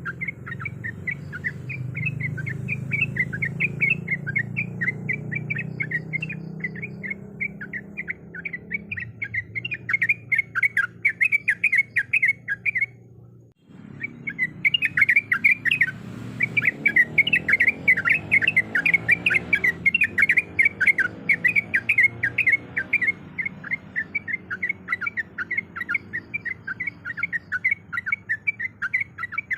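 Sooty-headed bulbul (trucuk) giving a rapid, continuous run of short chirping notes, a lure call of a female calling males. The calling breaks off for about half a second midway, then resumes.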